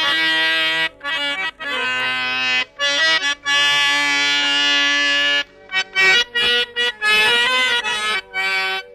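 Instrumental introduction to a ghazal film song, led by a reedy free-reed instrument playing long held melody notes and chords, then shorter, detached notes from about five and a half seconds in.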